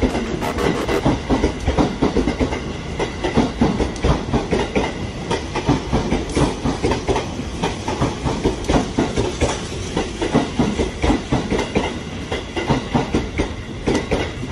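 Blue-striped E531 series electric commuter train running past a station platform, a steady rumble with fast, repeated clickety-clack of wheels over rail joints.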